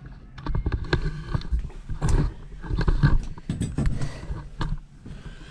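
Hand tools clattering and knocking in a quick, irregular series of sharp clicks and clunks, as when rummaging for a Phillips screwdriver among tools.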